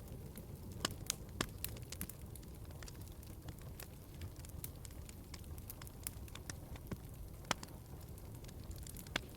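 Wood fire crackling in a fireplace: irregular sharp pops and snaps, a handful louder than the rest, over a steady low rumble of the burning logs.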